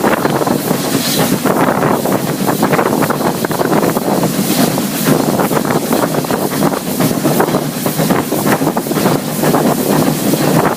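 Running noise of a moving heritage railway train: a steady loud rush with frequent irregular clatter, overlaid by wind buffeting the microphone.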